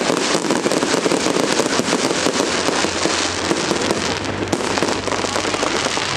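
Fireworks display going off in a dense, continuous crackle of many rapid small pops, with no single big bang standing out.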